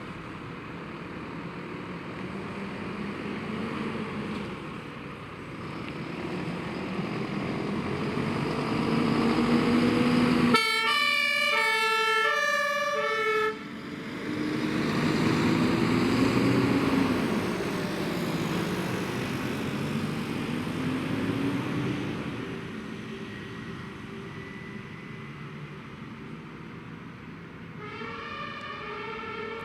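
Fire truck pulling away, its engine revving up and changing gear. About a third of the way in, its two-tone German siren (Martinshorn) sounds for about three seconds and cuts off suddenly. The engine pulls again, and the siren starts up again near the end.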